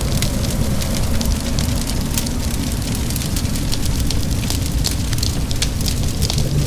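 Wood fire crackling and popping in a fireplace, many sharp little pops over steady rain and a continuous low rumble.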